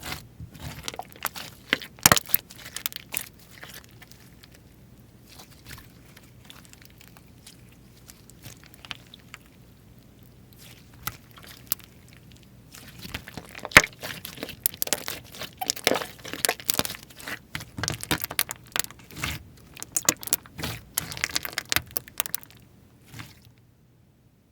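Slime being squished and stretched by hand, giving sticky clicks, pops and crackles. The sounds thin out for several seconds in the middle, come thick again from about halfway, and stop just before the end.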